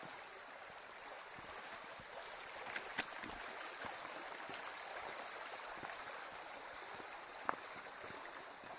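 Steady rush of running water from a stream or waterfall, with a few sharp clicks now and then.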